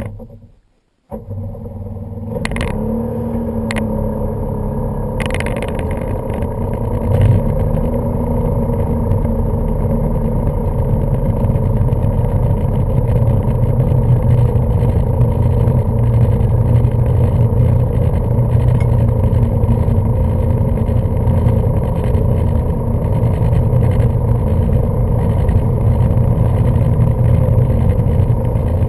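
1995 Sea-Doo Speedster jet boat's twin two-stroke engines running under way, with a few sharp knocks in the first seconds. The engines pick up speed about seven seconds in, then hold a steady, loud run at speed.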